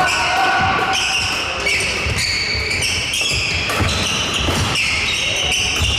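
Badminton rally: court shoes squeaking on the floor over quick footfalls and racket strikes on the shuttlecock.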